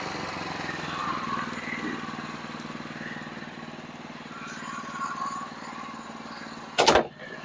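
Sawmill engine running steadily. A single loud, sharp bang cuts in near the end.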